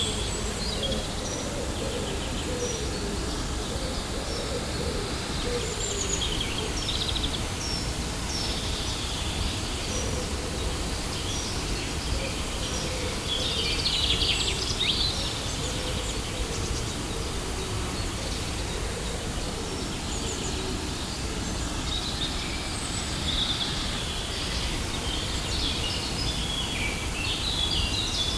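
Waterfall rushing steadily, with birds chirping and twittering over it in scattered bursts.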